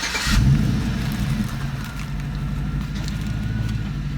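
A car engine catching as it is started, rising briefly in loudness, then settling into a steady low idle.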